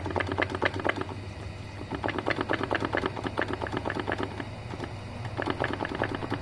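Rapid, even clicking, about eight a second over a low steady hum, from a removed Hyundai Accent manual gearbox as its input shaft is turned; the owner places the knock somewhere in the differential or elsewhere inside the box.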